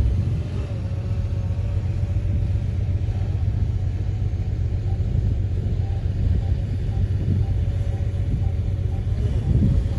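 Heavy diesel earthmoving machine running steadily, a deep rumble with a steady whine above it.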